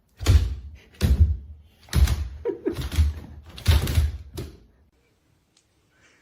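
Five heavy thumps, about one a second, stopping a little after four seconds in.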